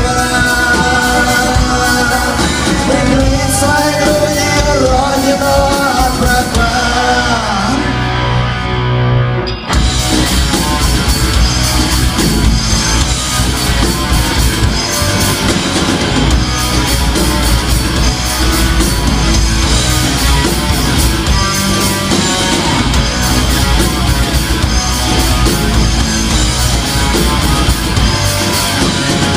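Rock band playing live, an instrumental passage: a melodic electric guitar lead over bass and drums, a brief break with a held low note about nine seconds in, then the full band comes back in heavier and louder.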